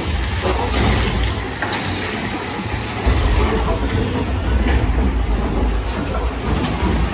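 Big Thunder Mountain Railroad mine-train roller coaster rumbling along its track, with a steady heavy low rumble and scattered clacks.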